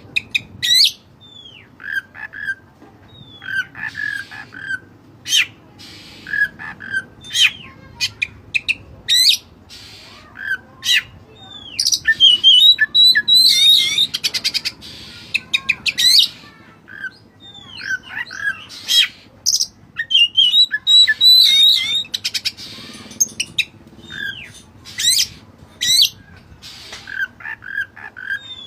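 Oriental magpie-robin of the white-breasted form (kacer dada putih) singing a varied song of sharp notes, whistled slurs and rapid chattering phrases, in loud bursts with short gaps. Its song has cililin calls worked into it by imitation.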